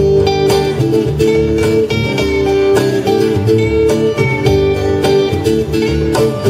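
Live band playing an instrumental intro led by plucked acoustic guitar, with a steady rhythmic strum and a bass line.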